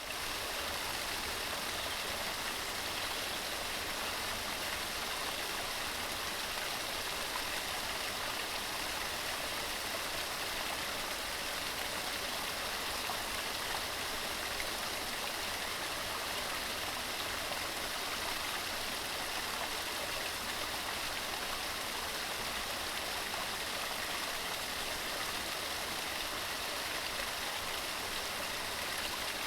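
Waterfall tumbling over rocks: a steady, even rush of falling water.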